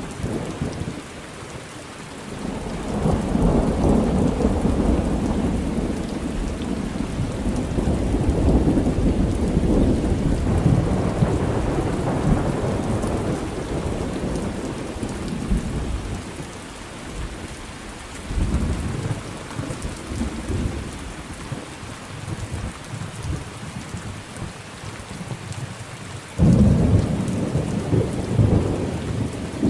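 Thunderstorm: steady rain with rolling thunder. A long low rumble swells a couple of seconds in and rolls on for over ten seconds, a shorter rumble follows, and near the end a louder peal starts suddenly and rolls on.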